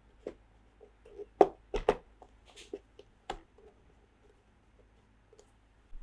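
Toy pieces and packaging being handled: a few sharp clicks and taps, the loudest about one and a half seconds in and another pair just after, with a short rustle near the middle.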